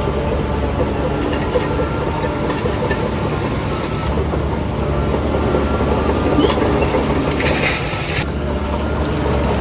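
Heavy diesel earthmoving machinery running steadily with a deep engine rumble and metallic rattling and clatter. A short hiss comes about three-quarters of the way through.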